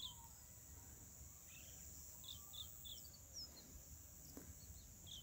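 Near silence of open outdoor air, with faint short bird chirps: one near the start and a quick run of three about halfway through.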